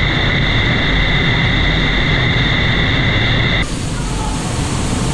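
Heavy rushing water of a waterfall close to the microphone, a loud steady roar. About three and a half seconds in it changes abruptly to a brighter, hissier rush.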